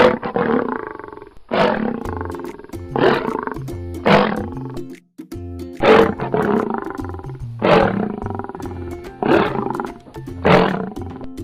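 A big cat roaring again and again, about eight roars, each about a second long, over background music.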